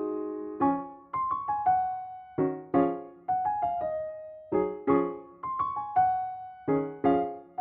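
Background music: soft solo piano chords, struck and left to fade, in a slow gentle rhythm.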